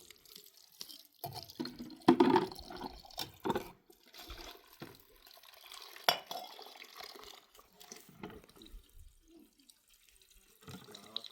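Water splashing and dripping in uneven spurts, loudest about two seconds in, with a single sharp knock about six seconds in.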